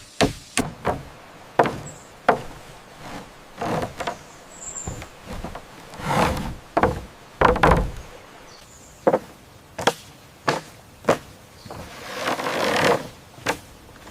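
Irregular sharp knocks of wood on bamboo, about a dozen strikes spaced from half a second to two seconds apart, with a couple of longer rustling stretches in between.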